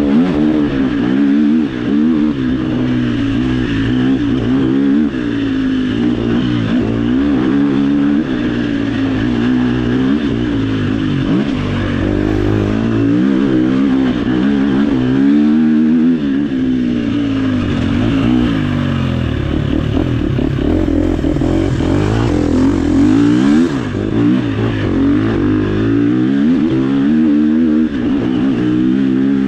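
Off-road dirt bike engine revving hard and constantly, its pitch climbing and dropping over and over with the throttle and gear changes as the bike is ridden along a trail.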